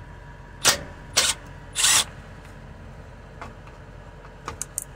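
Three short, loud handling noises about half a second apart, then a few faint clicks near the end: hand tools and the plastic-and-metal parts of a fuel pump control module mounting being handled under the truck.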